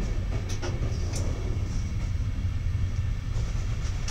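Passenger train pulling out of a station, heard from inside the coach by the door: a steady low rumble from the running gear, with a few sharp wheel clicks about half a second and a second in.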